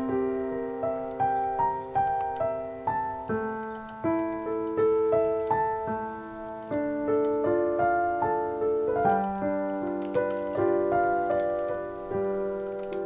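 Background piano music: a slow melody of single notes over held lower notes, each note struck and fading away.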